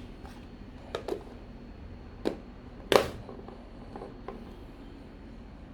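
A few short knocks and clicks of objects being handled, five in all, the loudest about three seconds in, over a steady low hum.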